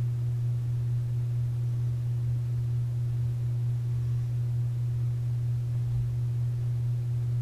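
Steady low electrical hum, one unchanging tone with a faint higher overtone.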